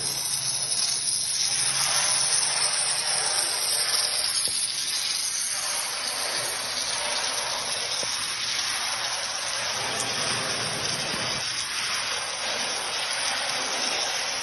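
Submerged arc welding in progress, with the arc burning under granular flux: a steady hissing noise that wavers slightly in strength.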